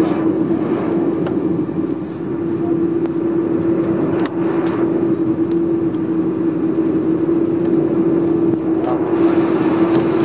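Steady cabin noise aboard a Boeing 747-400 during pushback: an even hum over a rushing air noise, with a few faint clicks.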